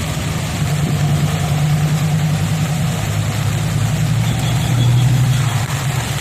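An engine running steadily with a low hum, growing louder to a peak about five seconds in and then easing off, over a steady hiss of rain or water.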